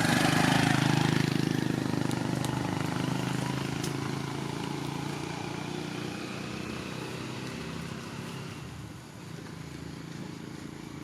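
An engine running, loudest at the start and fading away steadily over several seconds, as a motor vehicle moving off into the distance would.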